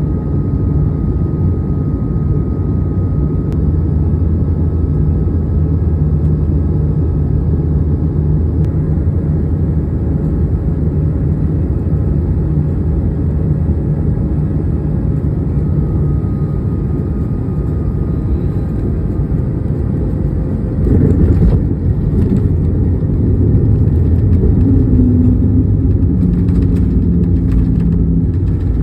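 Airbus A220 cabin noise on a landing: a steady low rumble of the Pratt & Whitney geared turbofans and airflow with a faint whine, turning louder and rougher about 21 seconds in.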